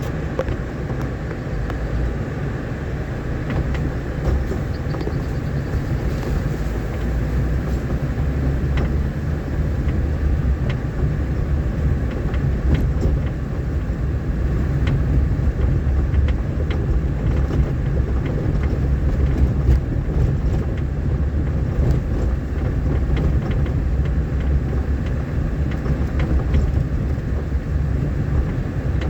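Vehicle driving along a rough, rain-damaged dirt road: a steady low rumble of engine and tyres, with scattered small knocks and rattles from the bumpy surface.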